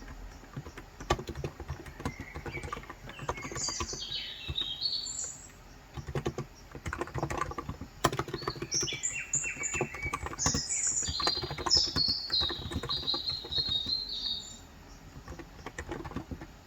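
Typing on a Cox Endeavor 35 g tenkeyless electro-capacitive keyboard, key presses coming in quick runs with a short pause around the middle. A bird sings chirping phrases in the background twice, once a few seconds in and again through the latter half.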